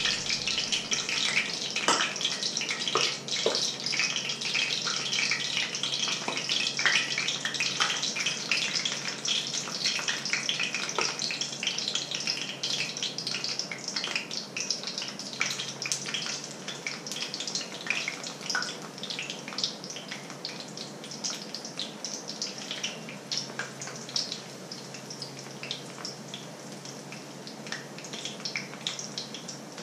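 Hot oil sizzling and crackling in a black frying pan as spoonfuls of batter fry in it, a steady hiss full of small pops that gradually gets quieter.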